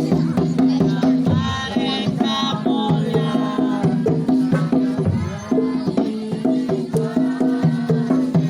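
Live Bantengan accompaniment music: fast drumming over struck pitched percussion holding steady notes, with a wavering melodic line coming in about a second and a half in.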